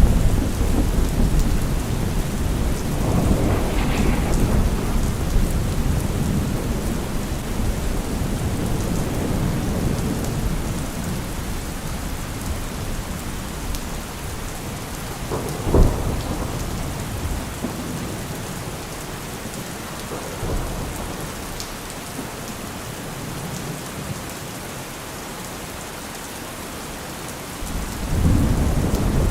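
Steady rain with thunder: a long rumble in the first few seconds, a sharp clap about halfway through, and another rumble building near the end.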